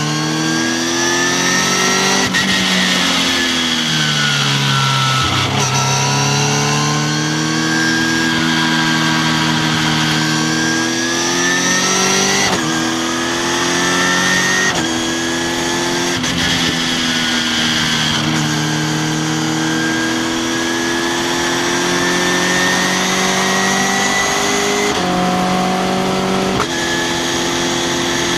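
Onboard engine of an open track car at racing speed: revs climb in each gear and drop suddenly at the gear changes, about eight of them, and sink as the car slows for corners.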